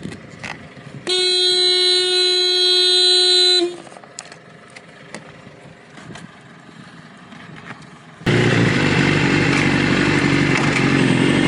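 A long, steady horn blast of about two and a half seconds, starting about a second in. Near the end, the loud, steady rush of a motorcycle being ridden, with wind and engine noise, cuts in suddenly.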